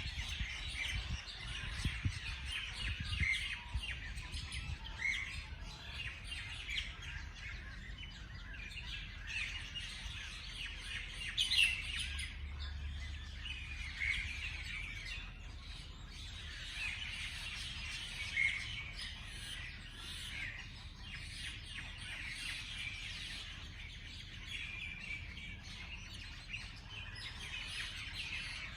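A chorus of small songbirds chirping and trilling continuously, with many overlapping short calls and one louder rising note about twelve seconds in, over a low background rumble.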